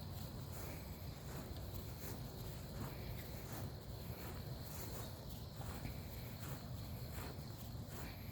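Soft, irregular footsteps on a grass lawn over a low steady rumble, with a thin steady insect tone in the background.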